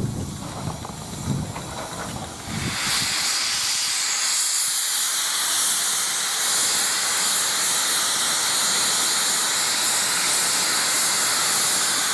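Steam locomotive sound: a few soft chuffs, then about three seconds in a loud, steady hiss of escaping steam starts and keeps going.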